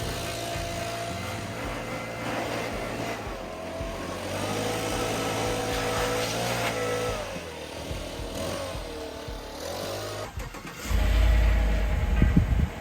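Lawn mower engine running steadily, its pitch wavering for a few seconds midway, then a loud low rumble near the end.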